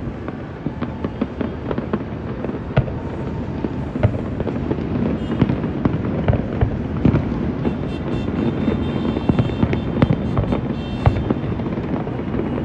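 Fireworks display going off: a dense run of sharp bangs and crackles over a continuous low rumble, the explosions coming more thickly in the second half.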